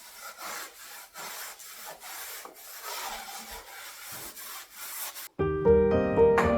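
Cloth rubbing furniture wax onto wooden furniture in repeated strokes, about two a second. Piano music cuts in abruptly about five seconds in.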